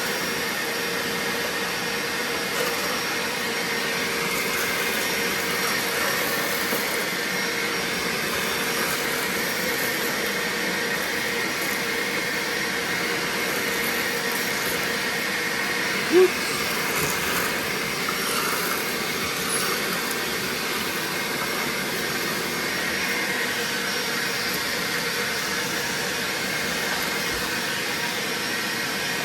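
BAUER 3-gallon wet/dry shop vacuum running steadily: an even rush of air with a steady motor whine.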